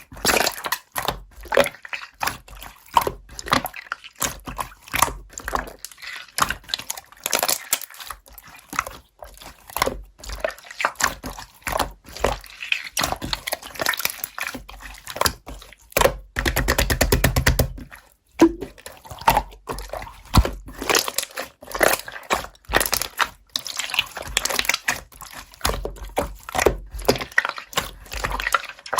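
Hands squishing and stretching slime, giving a steady run of wet, sticky clicks and pops, with a quick crackling burst of small pops about two-thirds of the way through.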